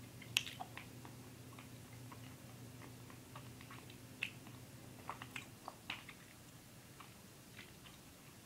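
A mouth chewing a soft, chewy Hi-Chew candy: faint, irregular little clicks and smacks. A low steady hum runs underneath and stops about six seconds in.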